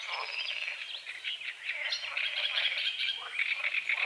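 A dawn chorus of songbirds: dense overlapping chirps and trills, with several whistled notes sliding down in pitch.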